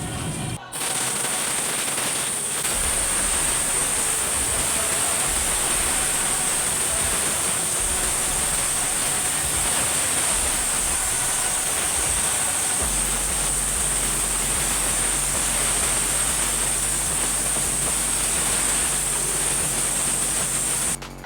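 Steady hiss of a pressure washer's water jet spraying a car during a wash. A low steady hum joins about two thirds of the way through.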